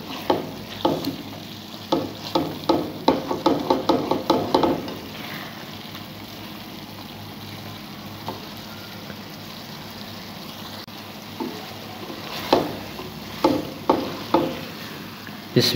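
Chana dal frying in oil in a metal pan, a steady sizzle, with the dal cooked dry and no water left. A metal slotted spatula scrapes and clicks against the pan while stirring for the first few seconds and again near the end.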